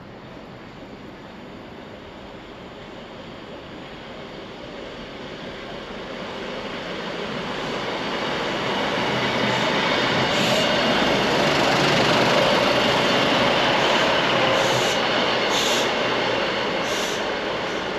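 A train passing by on the rails, growing steadily louder to a peak about two-thirds of the way through and then easing off, with a few short high-pitched wheel squeals or clicks near the end.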